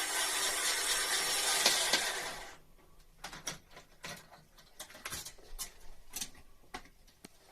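A motor-driven machine runs with a loud steady whir, then winds down and stops about two and a half seconds in. After that come scattered light clicks and taps of tools being handled.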